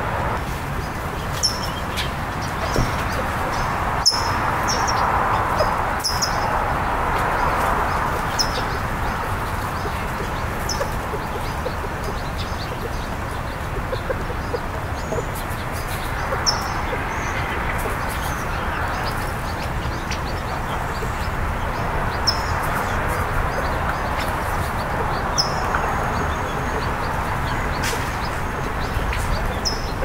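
Wild birds giving short, high chirps every few seconds, over a steady background rush.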